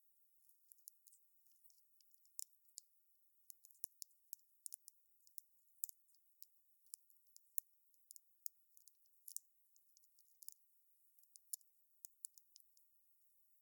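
Wood fire crackling: faint, irregular high-pitched pops and snaps, several a second, with no steady roar of flame beneath.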